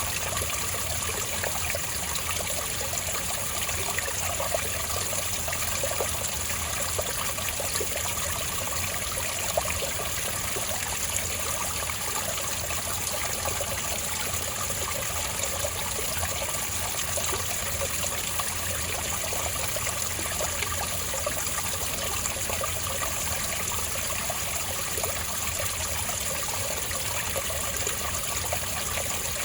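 Spring water trickling and burbling over rocks in a small stream, steady throughout with small splashes.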